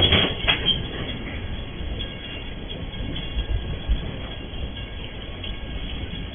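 MRS Logística freight train's container wagons rolling past, wheels clattering sharply over the rail joints in the first second, then a steady rolling rumble with a couple of low thumps.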